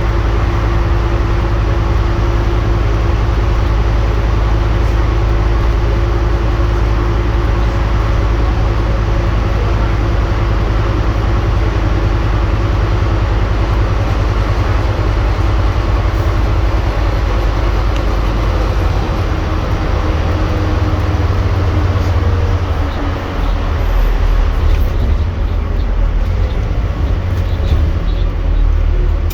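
Scania N230UD double-decker bus under way: a steady low engine drone over road noise. The engine note shifts a little more than two-thirds of the way through.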